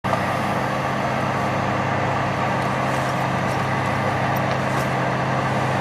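Farm machinery engine running steadily: a constant low drone with an even wash of noise over it.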